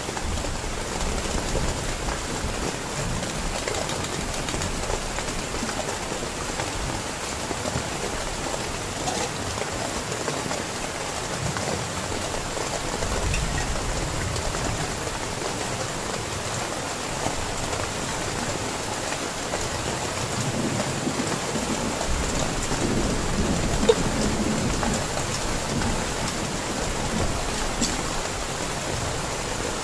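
Heavy rain falling steadily, with low rolling rumbles of thunder swelling about halfway through and again later on. A single sharp tap stands out near the end.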